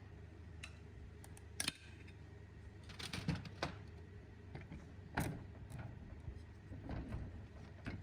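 Scattered light clicks and knocks of small parts being handled, about half a dozen over a few seconds, with a steady low hum beneath.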